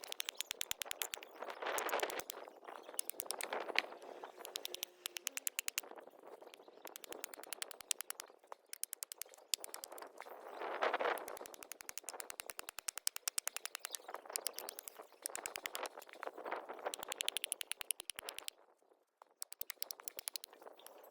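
Wood campfire crackling, a dense run of sharp pops and snaps, with a soft rushing that swells and fades several times.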